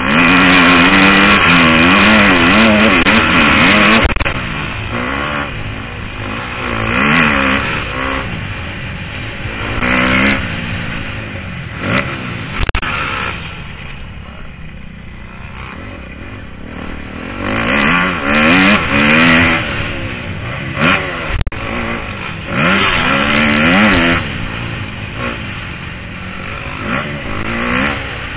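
Four-stroke 250 motocross bike engine heard from the rider's helmet, revving up and down over and over with several loud full-throttle stretches, the loudest right at the start.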